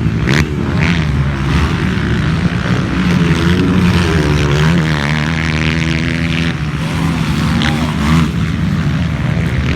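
Several motocross bikes running on the track, their engines droning together with pitch rising and falling as they rev and pass.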